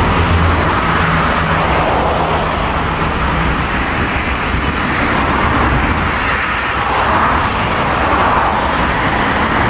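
Steady road traffic noise from passing vehicles, with a low engine hum in the first few seconds.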